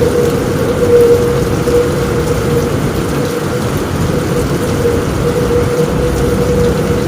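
Heavy rain falling steadily on a roof, with a low rumble beneath it and a thin steady mid-pitched tone running through it.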